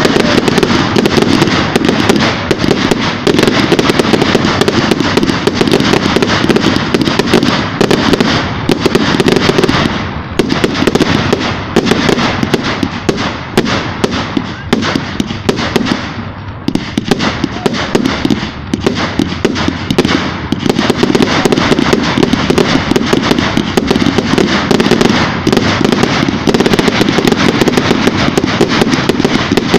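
Fireworks going off in a dense, continuous barrage of rapid bangs and crackles. The barrage thins somewhat about halfway through, then builds back up to full density.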